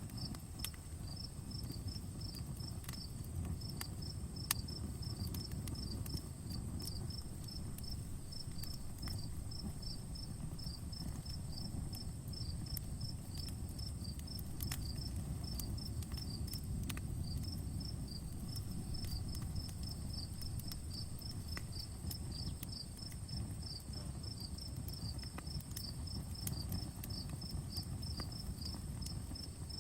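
Campfire crackling, with scattered sharp pops over a low steady flutter of flame. A cricket chirps in a steady quick rhythm throughout, over a thin steady high-pitched tone.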